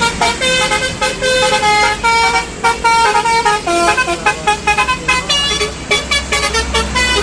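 Telolet bus horn (Basuri-type multi-tone air horn) playing a melody: a quick run of short and held notes that keeps changing pitch.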